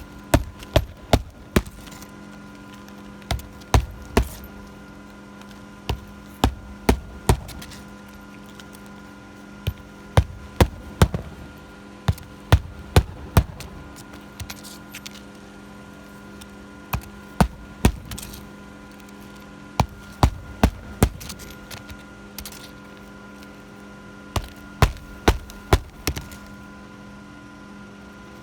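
Hammer blows driving nails into roof shingles, in quick bursts of three to five strikes with short pauses between bursts, over a steady background hum.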